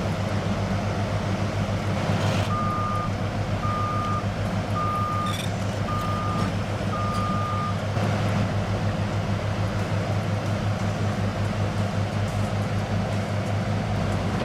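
A heavy diesel engine running steadily with a fast, even throb. From a few seconds in, a back-up alarm sounds five evenly spaced beeps, about one a second, then stops.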